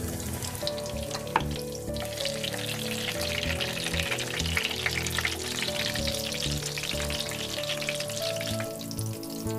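Squares of yeast dough frying in hot oil in a pan, sizzling and crackling steadily.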